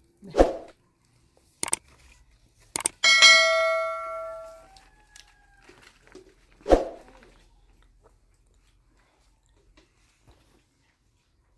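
A few sharp knocks and clatters, and about three seconds in a metal object is struck once and rings out like a bell for over a second before fading.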